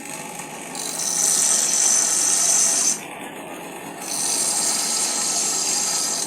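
A workshop power tool running in two bursts of about two seconds each, a high hissing whine that starts and cuts off sharply.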